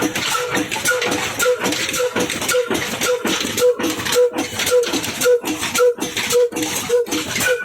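Old Ruston Hornsby single-cylinder diesel engine running under load driving a chaff cutter, with a steady, even beat of about two a second.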